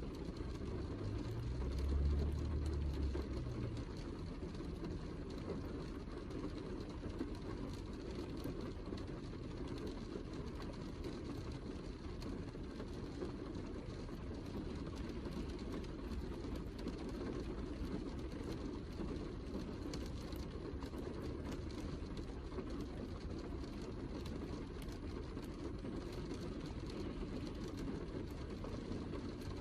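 Steady heavy rain: a dense, even wash of falling water with fine drop ticks through it. About two seconds in, a brief low rumble swells and fades.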